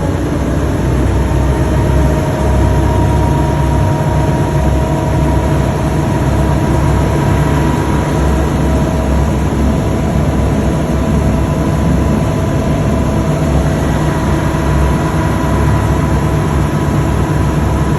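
Tour boat's engine running steadily under way: a continuous low drone with a faint steady whine over it.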